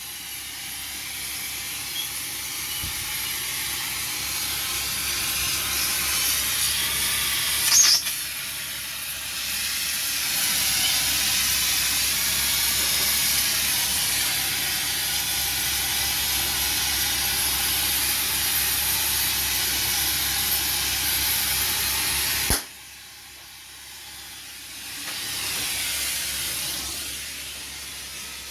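Gas torch flame hissing steadily while heating a part for a babbitt bearing pour, with a short louder flare about eight seconds in. The flame cuts off abruptly near the end, followed by a brief, weaker hiss.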